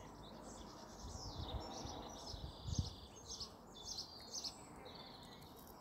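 Small birds singing and chirping faintly and repeatedly, over a steady low background of outdoor noise.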